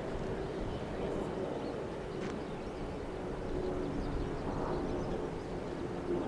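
Distant jet aircraft noise at an airport: a steady low rumble with a faint, even hum.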